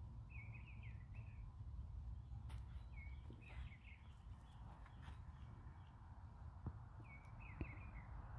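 Faint birdsong: a songbird sings a short chirping phrase three times, about every three seconds, over a low steady outdoor rumble.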